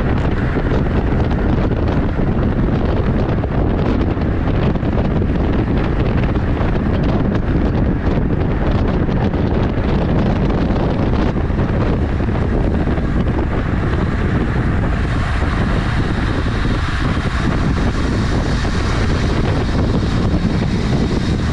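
Wind rushing over the camera microphone while riding a road bike: a loud, steady roar with no let-up. About two-thirds of the way through, a brighter hiss joins it.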